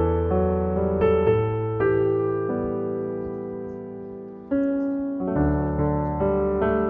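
Slow, gentle piano music: sustained chords and single notes, one chord left to fade for about two seconds before the next one strikes.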